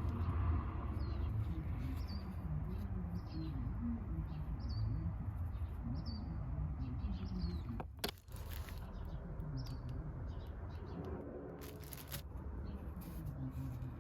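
A bird chirping repeatedly: short high notes about once a second through the first half, over a steady low rumble. A brief sharp noise comes about halfway through, and another shorter one later.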